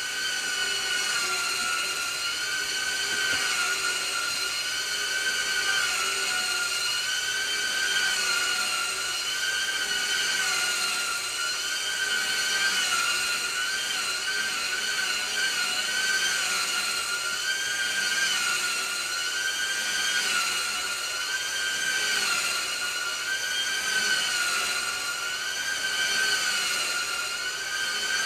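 Vacuum cleaner motor running with a steady high whine; its pitch wavers slightly up and down every second or two.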